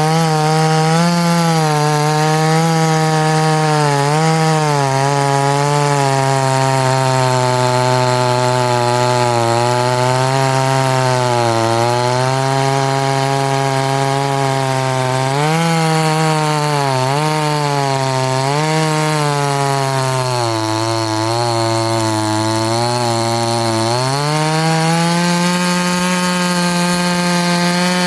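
Orange 58cc Chinese two-stroke chainsaw at full throttle cutting through a log. The engine pitch dips again and again as the chain bogs in the wood, sagging lowest for a few seconds near the end before climbing back to full revs.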